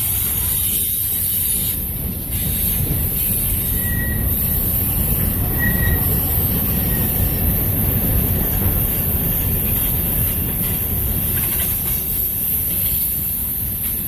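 Freight cars (covered hoppers, then gondolas) rolling past on steel wheels, a steady rumble of wheels on rail. Two brief, high wheel squeals sound about four and six seconds in.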